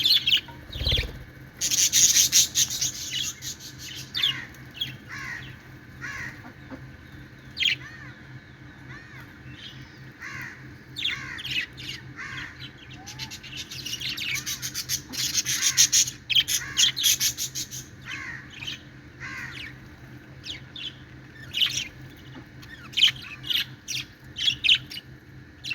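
Budgerigars chirping and chattering: many short, falling chirps, broken by louder bursts of harsh chatter about two seconds in and again around the middle.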